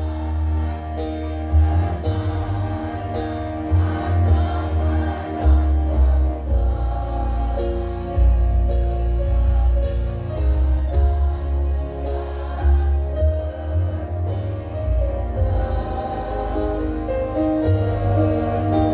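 Women's choir singing held notes over an accompaniment with a loud, heavy bass line.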